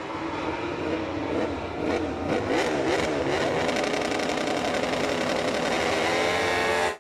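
MotoGP racing motorcycle engine revving hard, its pitch dropping and climbing through gear changes about two seconds in, then holding a high, steady note.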